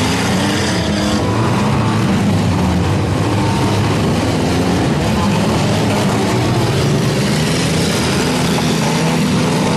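Several midsized demolition derby cars' engines running and revving together in a loud, steady din, their pitches rising and falling as the cars push and spin their wheels.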